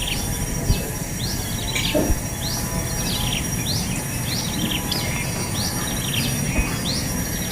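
Nestling birds' begging calls: a steady string of short rising chirps, roughly two a second, the calls of hungry chicks waiting for food. A steady background hiss runs underneath.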